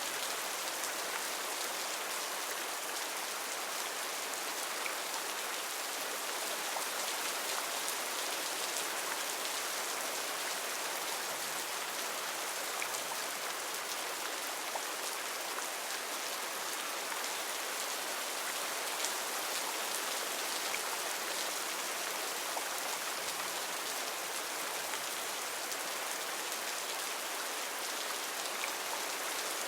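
Heavy rain falling steadily, a dense even hiss with scattered individual drops pattering on leaves and surfaces.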